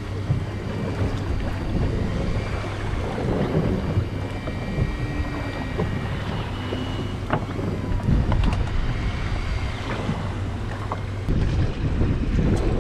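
Fishing boat's engine running with a steady low hum, with wind buffeting the microphone and water washing around the hull; the engine note changes about 11 seconds in.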